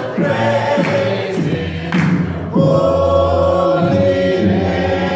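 A group of voices singing together in held notes, with a new, louder chord about two and a half seconds in.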